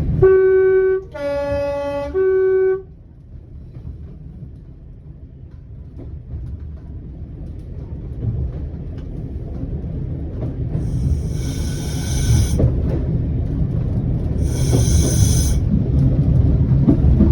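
Train horn sounded in three blasts, high note, lower two-note chord, high note again, over about three seconds. It is followed by the low rumble of the diesel railcar running on the rails, building gradually, with two shrill high-pitched passages of a second or two each in the second half.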